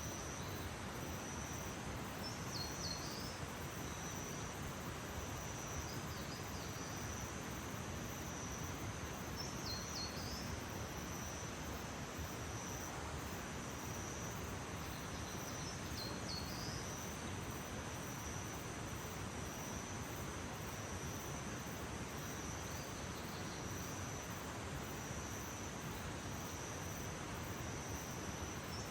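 Insects, likely crickets, trilling steadily on one high note over a soft outdoor noise haze, with a few short falling bird chirps every several seconds.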